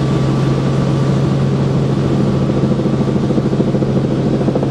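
Helicopter in flight heard from inside the cabin: a loud, steady low drone.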